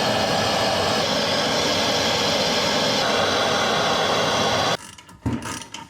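Impact wrench running steadily on a front-knuckle bolt and cutting off abruptly near the end.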